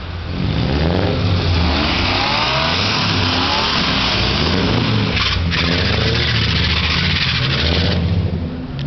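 An old Volvo car's engine revving hard under load, its pitch rising and falling repeatedly, with a loud rushing hiss over it from about one second in until about eight seconds.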